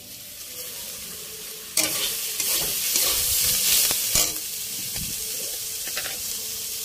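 Shredded cabbage, fried through, sizzling in oil in a metal kadai as a metal spatula stirs and scrapes it round the pan. The sizzle jumps louder about two seconds in and eases back a couple of seconds later.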